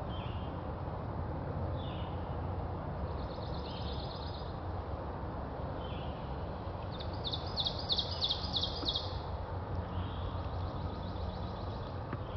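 Songbirds singing in spring woodland over a steady low background rumble. A short down-slurred note repeats every few seconds, a thin high trill comes a few seconds in, and a louder rapid trill follows past the middle.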